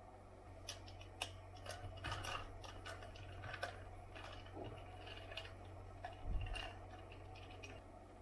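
Irregular light clicks, snips and taps of small objects being handled, over a steady low hum.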